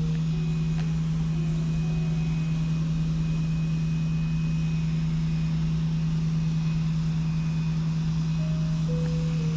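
Steady low drone of a car heard from inside the cabin, with a constant hum that does not change. Faint melodic notes of music come in briefly near the start and again near the end.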